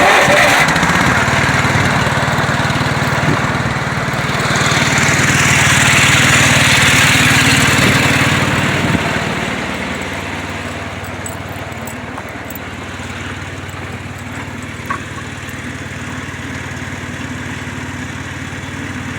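Old Ford delivery van engine starting up and running fast and loud for the first several seconds. It then drops to a steady idle from about halfway through.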